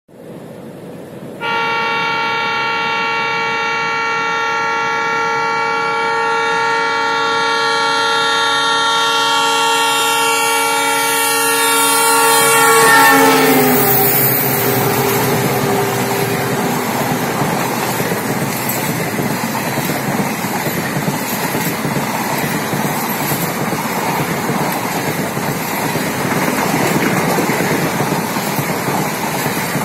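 Passenger train passing through at speed. The locomotive's horn sounds one long multi-tone blast, starting about a second and a half in, and its pitch drops as the locomotive goes by, about 13 seconds in. After that comes the steady rumble and clatter of the coaches' wheels on the track.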